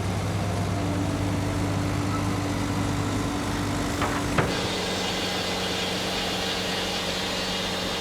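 An engine running steadily with a low hum, a sharp knock and a change in the hum about four seconds in.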